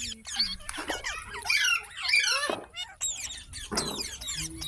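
Pet green parrot chattering in a string of rapid, high squeaky calls, in several bursts with short breaks between them.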